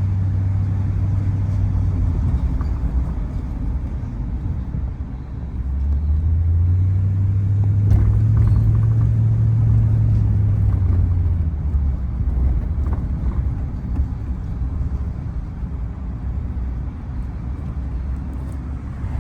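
Tow vehicle's engine and road noise on a winding road, a low steady drone that swells and rises a little in pitch about six seconds in, then eases back after a few seconds.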